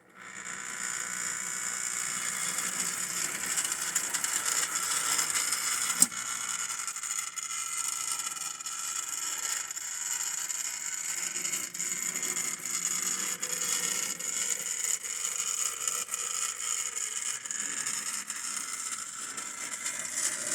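Scratch-built brass S-gauge model steam locomotive running on track: its Pittman-type motor whirring steadily and the gears and wheels rattling, with light irregular clicks and one sharp click about six seconds in.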